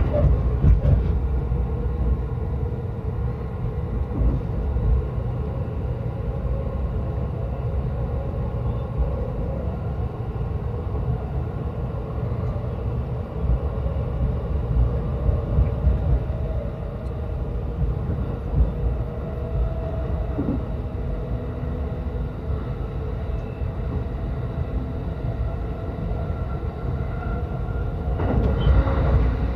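Yokosuka Line electric commuter train running between stations, heard inside the passenger car: a steady low rumble of wheels on the rails with faint motor tones above it.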